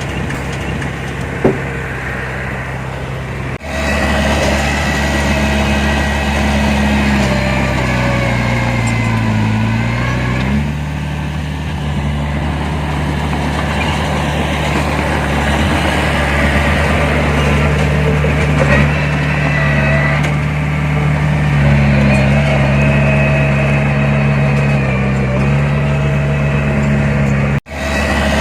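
Heavy diesel earthmoving machinery engine running steadily, its pitch sagging and recovering under load about a third of the way in.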